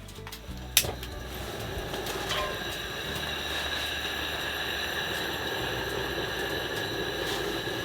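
Food sizzling in a frying pan: a steady sizzle that swells after a sharp click about a second in.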